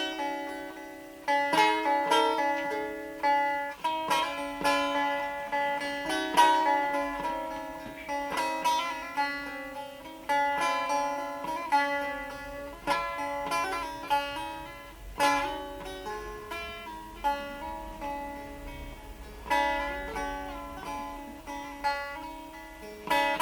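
Solo improvisation on a bağlama (saz), the Turkish long-necked lute: a plucked, freely flowing melody over a steadily ringing drone string, each note fading after it is struck.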